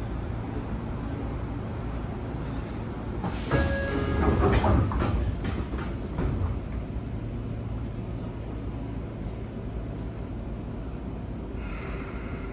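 Sotetsu 8000 series commuter car standing at a platform, its equipment giving a steady low hum. A louder burst of knocks and clatter with a couple of brief tones comes from about three and a half to six and a half seconds in.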